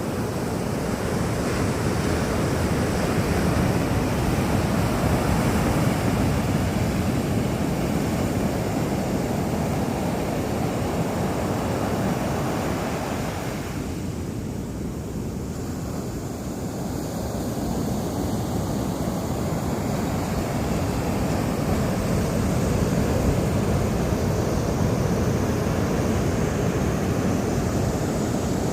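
Ocean surf breaking and washing on a sandy beach, a continuous rushing that swells and eases slowly, with wind buffeting the microphone.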